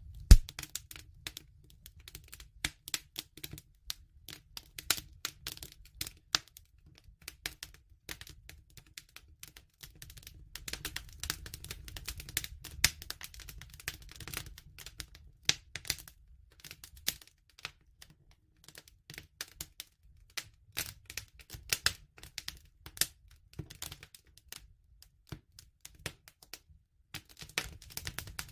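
Wood fire crackling: dense, irregular sharp snaps and pops over a low steady rumble, with the loudest pop just after the start.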